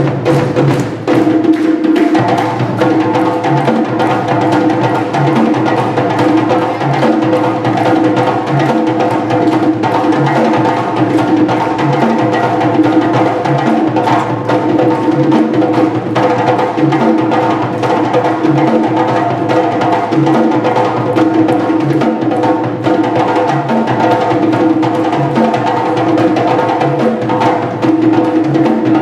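West African drum ensemble of djembe and dundun drums (sangban, dundunba, kenkeni) playing a steady, fast interlocking rhythm for dancers.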